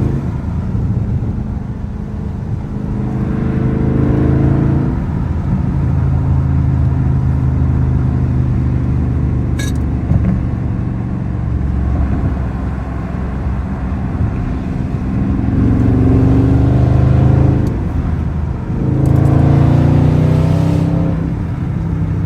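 Exhaust of a 2022 Dodge Charger Scat Pack's 6.4-litre HEMI V8 with the mid-muffler deleted, running under way with a deep, loud drone. It climbs in pitch three times as the car accelerates: a few seconds in, about two-thirds of the way through, and again near the end.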